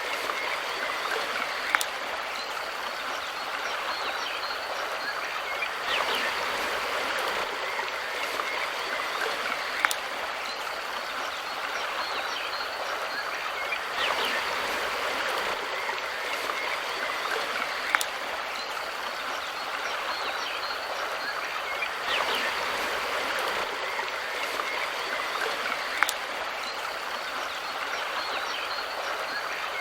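River water flowing and rushing steadily over stones, with a short sharp tick about every eight seconds.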